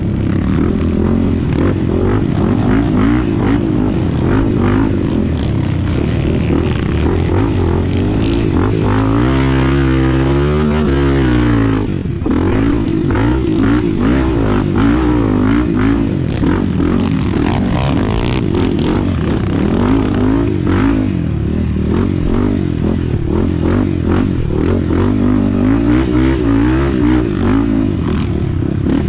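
Enduro dirt bike engine revving up and down continuously as it is ridden, its pitch rising and falling with the throttle, with a brief drop in revs about twelve seconds in.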